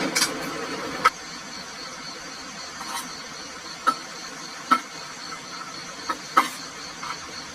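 Utensils clicking and clinking against a pot or bowl of ramen while it is eaten, a handful of sharp knocks a second or so apart, over a steady high hiss.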